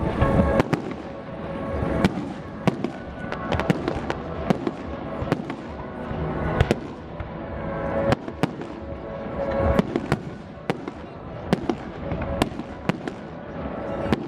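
Aerial fireworks display: a dense, irregular series of sharp bangs and crackles, several each second.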